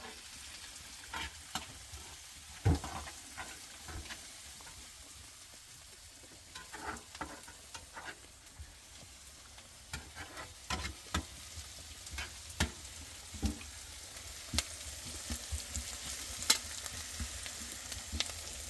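Food frying in a pan: a steady sizzle with scattered sharp pops and clicks, growing a little louder in the second half.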